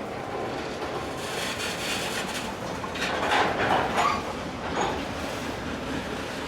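Freight train wagons rolling past on the rails with a steady rumble, getting louder with some clattering and brief squeals about three to four seconds in.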